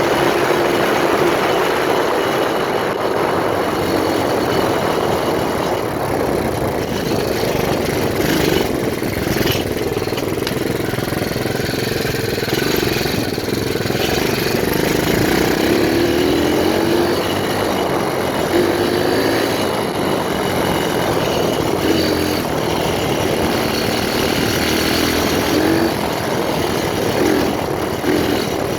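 A 125cc pit bike's single-cylinder four-stroke engine running under riding, its note rising and falling as the throttle is opened and closed.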